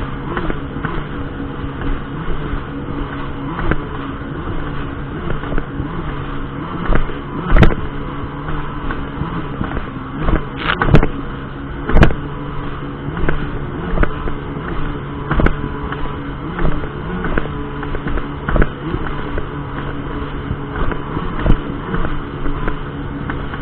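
Jet ski engine running steadily at cruising speed, a constant droning hum, with irregular loud thumps, the heaviest three in a row between about 7 and 12 seconds in.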